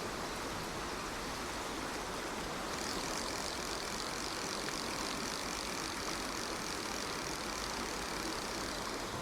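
Steady rush of a small rocky stream running through pocket water, with rain. A brighter, higher hiss joins about three seconds in.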